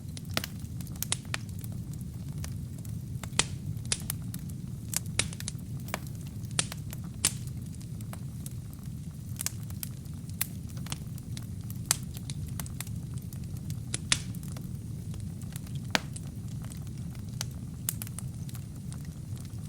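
Wood and kindling fire burning in a fireplace: a steady low rumble of flames with sharp, irregular crackles and pops every second or so.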